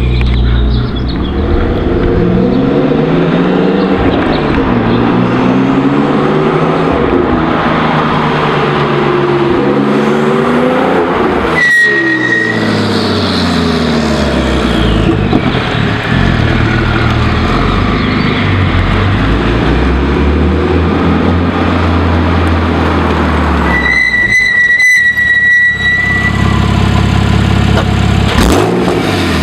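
Porsche 997.2 Turbo's twin-turbo flat-six through a catless Europipe exhaust, revving up and down again and again. A high turbo whistle is heard briefly midway and again for a couple of seconds later. Near the end it settles to a steady low run.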